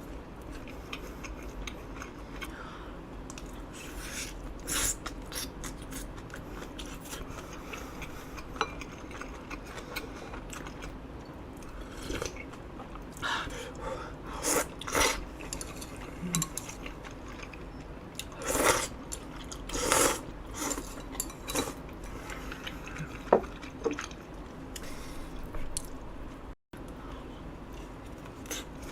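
Eating an eel rice bowl: utensils clinking and scraping against the bowl in scattered short knocks, with chewing and biting in between.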